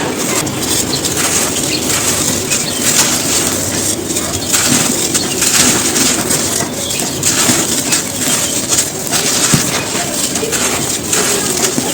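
Dry, brittle cones being crumbled and crushed, a continuous gritty, crispy crunching made of many small cracks one after another.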